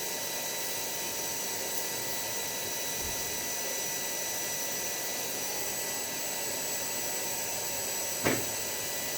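Steady whirring noise with a faint high whine, and one sharp click about eight seconds in.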